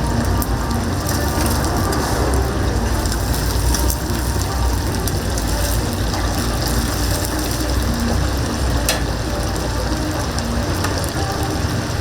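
Chickens deep-frying in a vat of oil: a steady, dense sizzle with scattered clicks and clatter.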